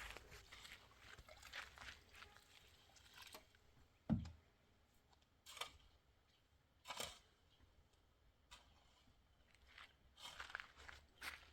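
Near silence broken by faint, scattered crunching and scraping noises, with one dull thump about four seconds in.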